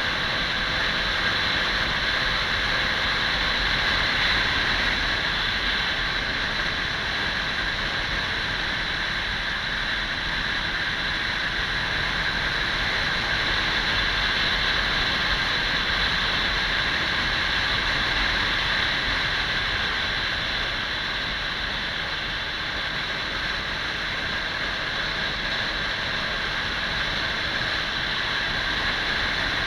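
Kawasaki 400 cc motorcycle ridden at a steady pace: a constant rush of wind noise with the running engine underneath, level and unbroken throughout.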